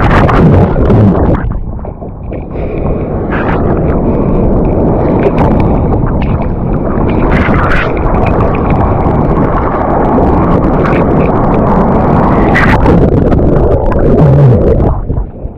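Heavy wind buffeting the microphone together with water rushing and splashing in hurricane surf, with short sharp splashes throughout; it eases briefly about two seconds in and again near the end.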